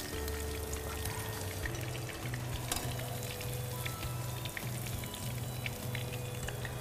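Papad-coated chicken pieces frying in a pan of hot oil, a steady crackling sizzle with many small pops, over soft background music with low sustained notes.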